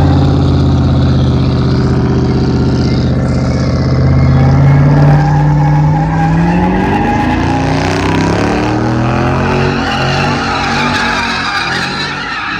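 A V8 muscle car doing donuts: the engine is held at high revs with the rear tyres spinning and squealing. The engine pitch climbs from about five to eight seconds in.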